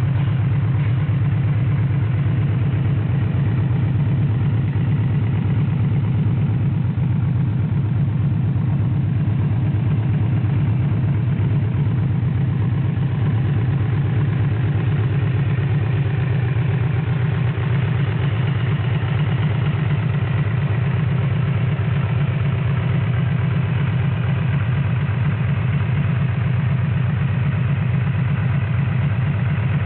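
Yamaha VMAX 1700's V4 engine idling steadily through an RC Koshien HITMAN titanium slip-on exhaust, a low, even exhaust note.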